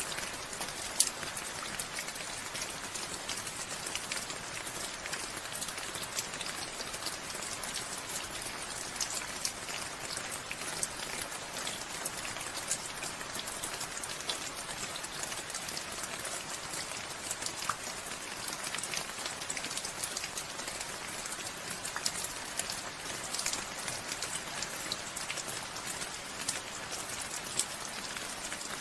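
Steady rainfall, a dense patter with many small sharp drop impacts.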